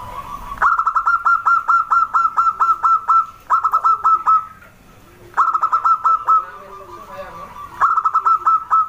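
Zebra dove (perkutut) calling in phrases of rapid, clipped notes, about five a second, four phrases in all; the first and longest lasts over two seconds.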